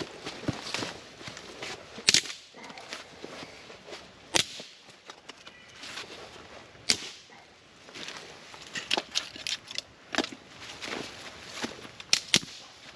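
Dry sticks of firewood snapping, a series of irregular sharp cracks with rustling between them.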